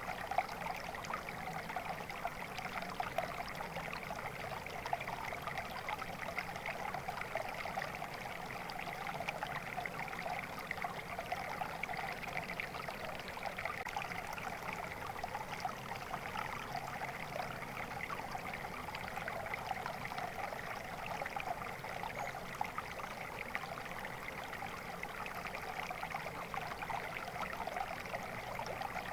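Flowing water: a small stream running over stones, a steady trickling and splashing.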